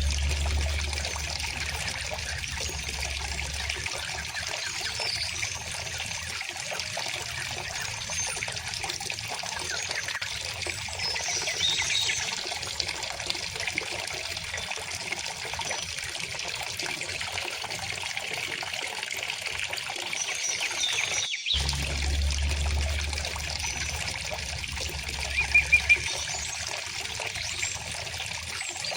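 A shallow river trickling and babbling steadily, with scattered songbird chirps above the water and a quick run of three louder chirps near the end. The water briefly cuts out about two-thirds of the way through.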